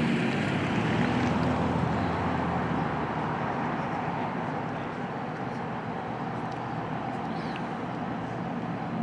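Road traffic: a passing motor vehicle's engine and tyre noise, fading gradually over the first half, then a steady lower traffic hum.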